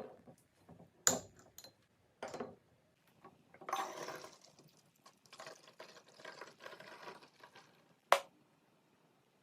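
Containers being handled while a fridge is restocked: a few sharp clicks and knocks, with stretches of softer scraping or liquid noise between them. The loudest click comes near the end.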